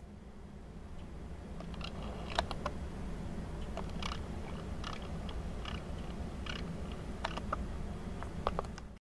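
Wind rumbling steadily on the microphone, with about a dozen brief, sharp chirps from a flock of birds scattered over it.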